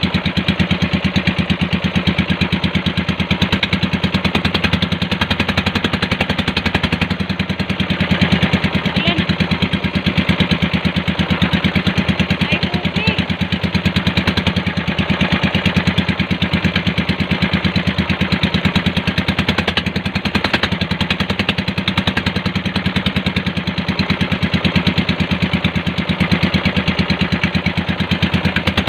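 Small engine of a bangka (Filipino outrigger motorboat) running steadily at constant speed, with a fast, even firing beat.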